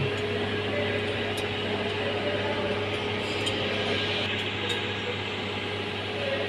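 Steady running of an Ashok Leyland BS4 truck's diesel engine: a constant low drone with an even hiss that does not change.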